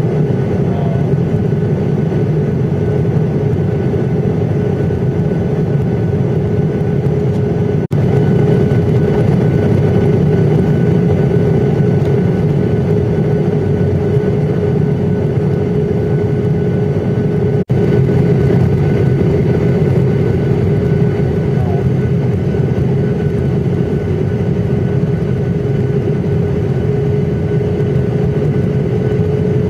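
Airliner cabin noise in flight: a loud, steady drone of engines and airflow with a steady hum running through it. It drops out for an instant twice.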